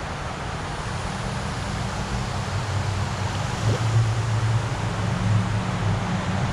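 Rushing water of a mountain river running over rocks, a steady hiss, with a low rumble underneath that grows louder about two seconds in.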